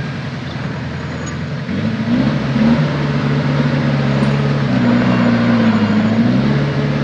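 Heavy diesel earthmoving engine running, picking up speed and growing louder about two seconds in, then holding at the higher speed.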